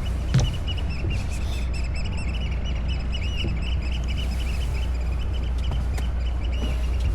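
A boat's engine drones steadily underneath a long run of quick, high, repeated chirping bird calls.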